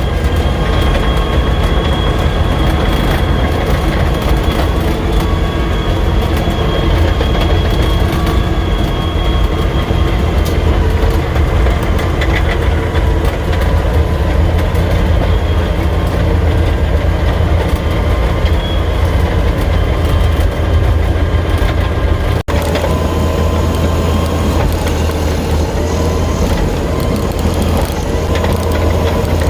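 Caterpillar D6D crawler dozer's six-cylinder diesel running steadily under way, with its steel tracks clanking along. There is a momentary dropout about three-quarters of the way through.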